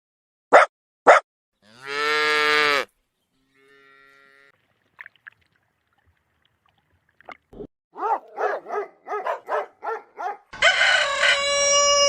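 A string of farm-animal calls. Two short clicks come first, then a cow's moo of about a second. After a pause come a run of quick chicken clucks and a loud, steady-pitched chicken call near the end.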